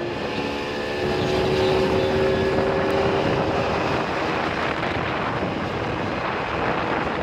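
An engine running steadily, its hum drifting slightly in pitch over the first few seconds, over a loud, even background noise.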